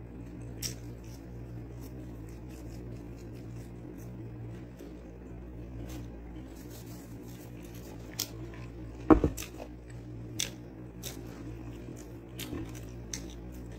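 Close-up mouth sounds of someone chewing french fries: small wet smacks and clicks over a steady low hum, with one louder knock about nine seconds in.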